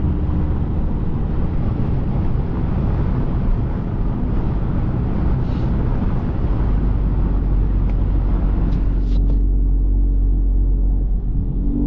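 A tuned Volkswagen Golf R's turbocharged 2.0-litre four-cylinder and its tyres heard from the driver's seat while driving: a steady engine drone with road noise. About nine seconds in, the hiss above falls away and a deep low rumble carries on.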